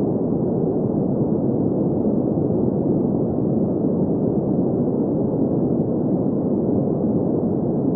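Steady green noise: an even, constant hiss centred on the low-middle range, with little above the upper mids.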